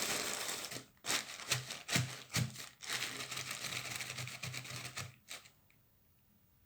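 Plastic shower cap being crinkled and crushed close to the microphone, a dense crackling with sharp snaps, stopping about five seconds in.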